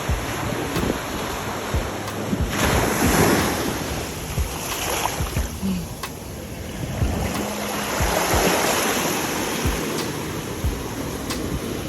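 Wind buffeting the microphone over a rush of ocean water, swelling up twice.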